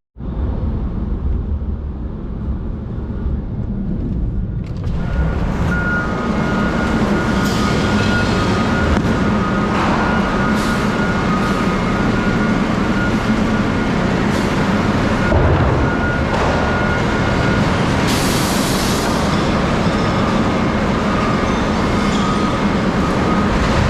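A vehicle on the move: steady engine and road noise that grows louder about five seconds in, with a few brief swells.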